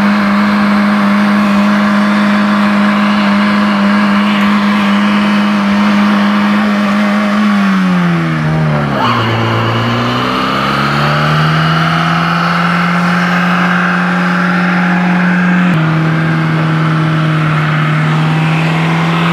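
Volkswagen Passat B3's 1.8-litre four-cylinder petrol engine held at high revs in a burnout, its spinning tyres squealing. About eight seconds in the revs dip sharply and climb straight back, then hold steady again.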